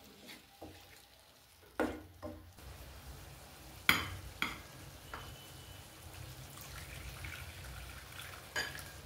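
Chicken frying quietly in a pan on medium flame, with a steady low hum, and a few sharp clinks of pans or utensils, the loudest about four seconds in.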